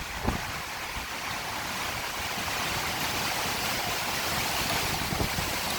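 Hurricane wind and heavy rain: a steady rushing hiss, with a couple of brief low thumps of wind buffeting the microphone.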